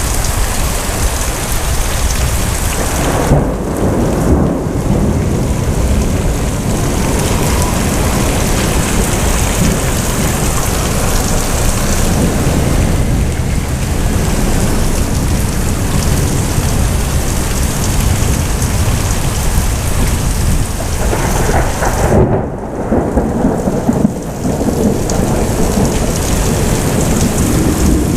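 Heavy rain falling steadily through a thunderstorm, with rolling thunder rumbling underneath. Two heavier peals come about three seconds in and again around twenty-one seconds in.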